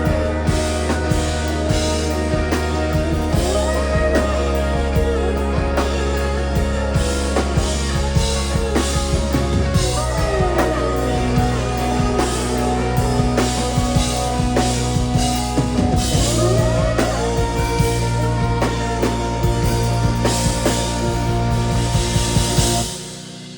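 Live rock band playing: a drum kit keeps a steady beat under long held bass notes and gliding lead lines. The music stops abruptly about a second before the end.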